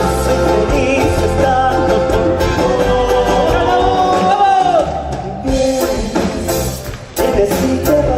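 Argentine folk music: a singing voice held on long, wavering notes over instrumental accompaniment, dipping briefly about seven seconds in before carrying on.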